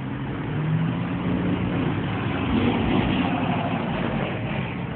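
Car engine and road noise in traffic, a steady low hum that swells in the middle.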